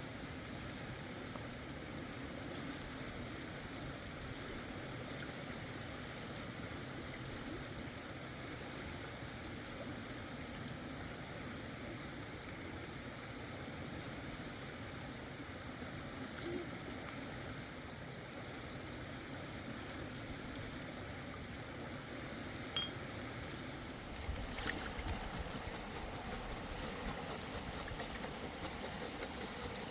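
Mountain river water flowing steadily. Near the end a run of fast, fine ticking joins in.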